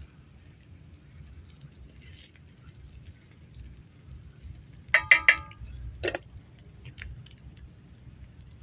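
Cooking utensils clinking with a ringing tone: a quick run of three or four clinks about five seconds in, one more clink a second later, then a few light ticks.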